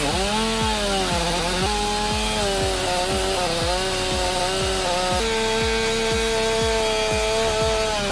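Two-stroke chainsaw engine revving up and down, then held at a steady high pitch, stepping up about five seconds in.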